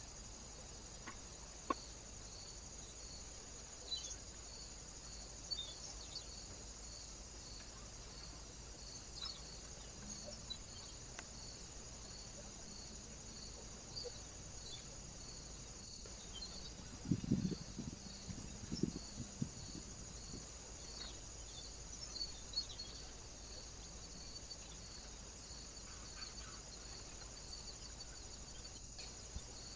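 Faint outdoor ambience at a bird feeder: a steady high-pitched chirp repeating about once a second over a hiss, with scattered short clicks and a brief cluster of low knocks and rustles about 17 to 19 seconds in.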